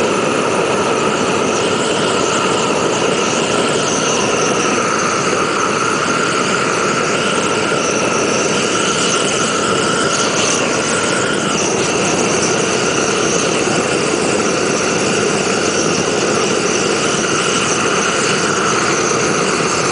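Handheld gas torch running steadily at full flame, a loud, even hiss with faint steady tones in it, as it is played on a cell phone.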